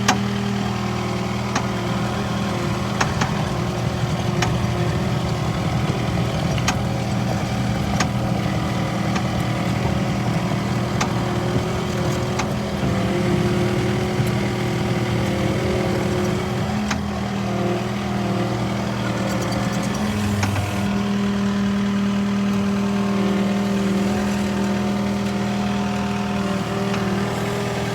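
Skid steer loader's engine running at a steady speed, with scattered sharp clanks.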